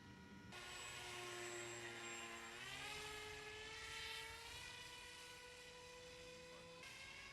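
Radio-controlled superhero-shaped model aircraft's motor and propeller whining in flight. The pitch rises about two and a half seconds in, then holds steady.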